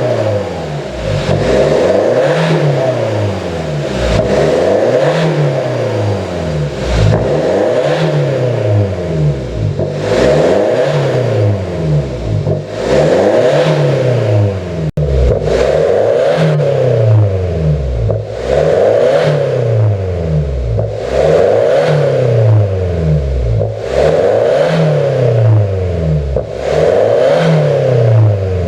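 Kia Sportage R diesel engine revved again and again through a custom dual straight-pipe exhaust, giving a deep diesel exhaust note. Its pitch rises and falls about once every one to two seconds.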